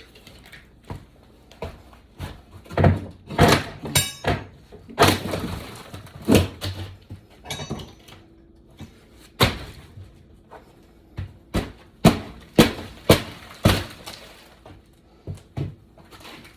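Irregular hammer blows and cracking wood as rotted floorboards are knocked and pried out, with a couple of short rattles among the strikes.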